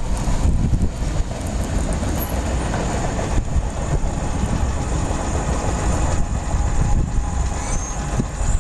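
Steady rumble and rail noise of a freight train's last cars rolling away on the track.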